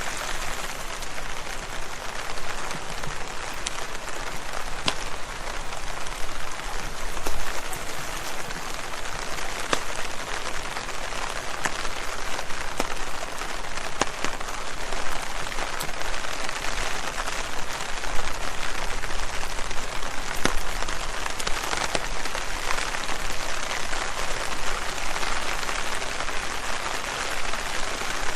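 Steady rain falling on leaves, a constant patter with many sharp individual drop hits scattered throughout.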